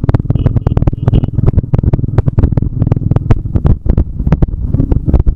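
Wind buffeting the microphone of a moving motorcycle: a heavy, loud rumble broken by rapid, irregular crackling gusts.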